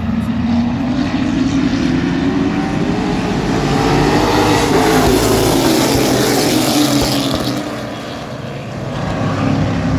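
Racing trucks' engines at speed going past. The engine note rises and swells to its loudest about halfway through, falls away as they pass, then builds again near the end as more trucks come by.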